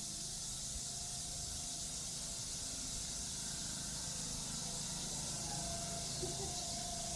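A steady high-pitched hiss over a low rumble, unchanging throughout; a faint steady tone joins in about five and a half seconds in.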